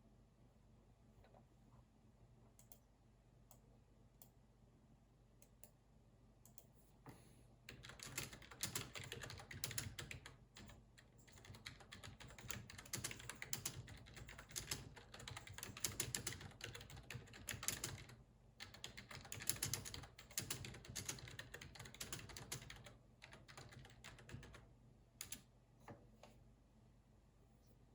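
Computer keyboard typing in quick, dense runs of keystrokes that start about a quarter of the way in, break off briefly past the middle, resume, and end in a few lone key taps. Before the typing starts there are only a few faint scattered clicks.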